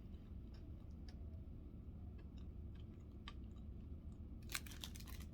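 Faint chewing of a Little Debbie snack cake, with scattered soft clicks and a short crackly burst near the end, over a low steady hum.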